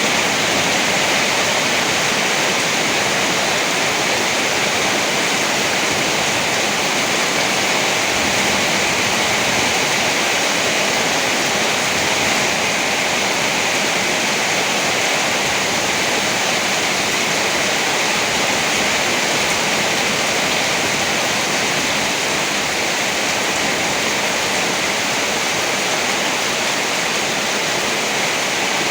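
Heavy rain falling steadily, a dense, unchanging hiss with no thunder claps.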